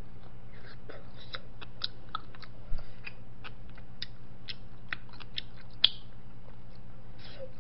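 Chewing of tteokbokki rice cakes close to the microphone: soft, scattered wet mouth clicks and smacks over a steady low hum, with a low thump a little under three seconds in and a sharp click near the end.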